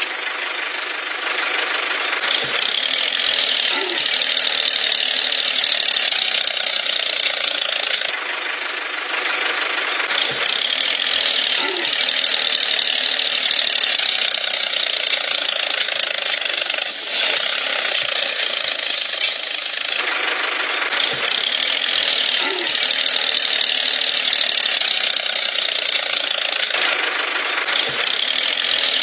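A small machine running steadily with a whirring, gear-like rattle and light ticks, swelling and easing in a cycle about every ten seconds.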